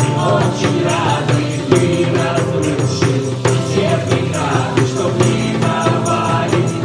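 Live worship-song music with tambourines keeping a steady beat under voices singing together.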